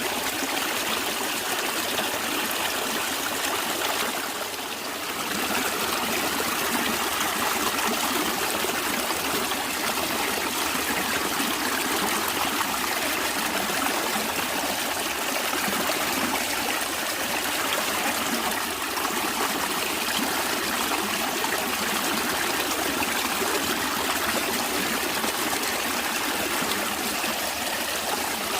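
Stream water flowing and trickling steadily, a dense even rush with no other sounds.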